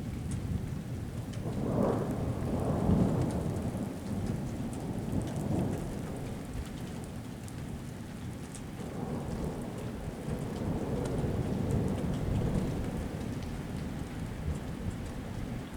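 Thunder rolling from a thunderstorm: a long low rumble that swells about two seconds in and fades, then swells again from about nine to thirteen seconds in.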